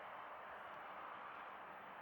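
Faint, steady jet engine noise from a Boeing 737-800 airliner.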